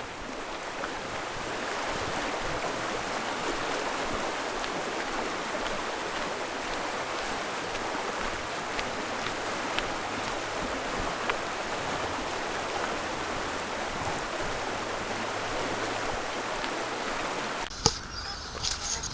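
Steady rushing of flowing water from a stream or waterfall. It cuts off with a click near the end, giving way to a quieter background with a low rumble.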